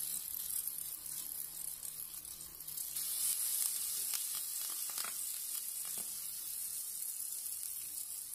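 Egg and moringa-leaf batter sizzling in hot oil in a frying pan, the sizzle getting louder about three seconds in, with a few short clicks.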